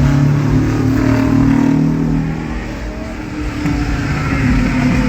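Car engine running loudly, its note sinking a little midway and climbing again near the end.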